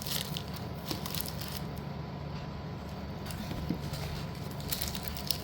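Hands handling pieces of slate and their packaging: scattered light clicks and rustling, busiest at the start and again near the end, over a steady low hum.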